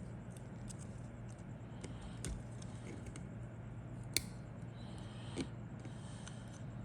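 Scattered light clicks and handling noises, with one sharp click about four seconds in and a softer one a second later, over a steady low hum.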